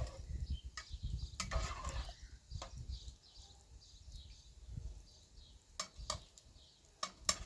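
Farmyard birds calling faintly and repeatedly, over scattered sharp clicks and knocks and a low rumble.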